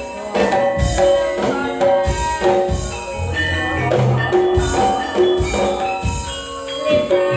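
Campursari ensemble playing an instrumental passage: ringing metal-keyed melody notes over a steady drum beat.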